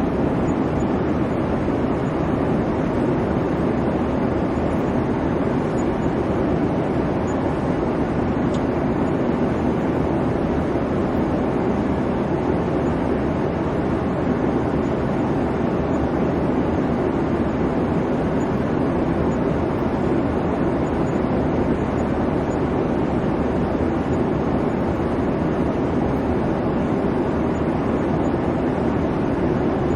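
Airplane cabin noise in flight: a steady, even rumble of engine and airflow, heaviest in the low-middle range, with no changes.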